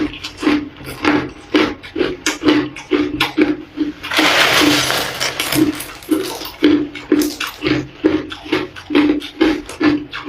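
Ice being chewed close to the microphone: a run of crisp crunches, about two a second. About four seconds in comes a denser, continuous crunching hiss lasting about a second and a half.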